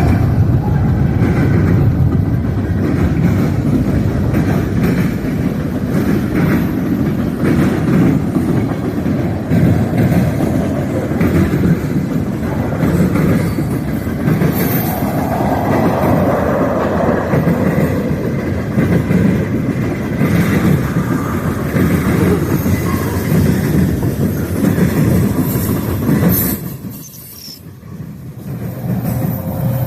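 Freight train passing close by: a steady rumble of railcars rolling on the rails, with rhythmic clickety-clack of the wheels over the rail joints. The sound drops away sharply for about two seconds near the end, then returns.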